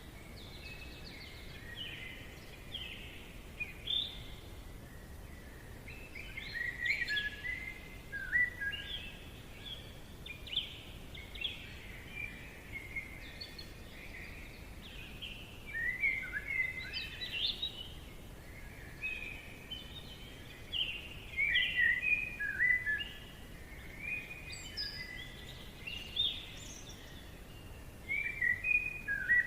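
Several birds chirping and trilling in bouts over a faint steady hiss of forest ambience.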